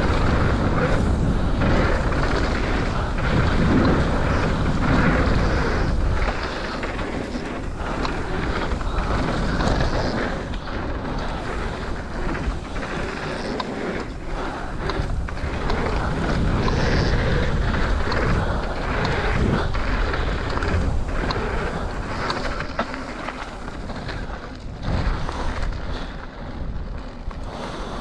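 Mountain bike riding down a dirt flow trail: tyres rolling over dirt, the bike clattering with short knocks over bumps, and wind buffeting the microphone, heaviest in the first six seconds and then easing.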